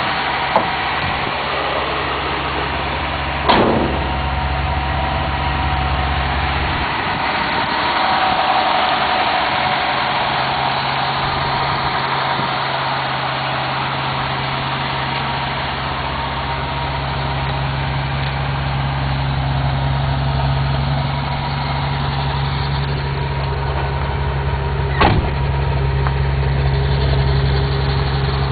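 1986 Toyota FJ60 Land Cruiser's 2F inline-six engine running steadily with a low hum. The hum drops away for a few seconds after a brief knock about three seconds in, then returns; a second brief knock comes near the end.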